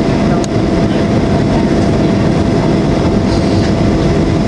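Steady cabin noise inside a Boeing 737-800 descending toward landing: the engines and rushing air give an even, loud rumble with a faint steady tone, and a single click about half a second in.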